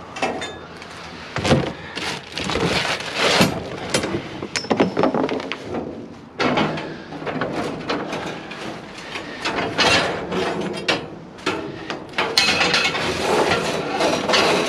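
Scrap metal and wire being pulled and shifted around in a dumpster: an irregular run of clanks, knocks, scrapes and rattles.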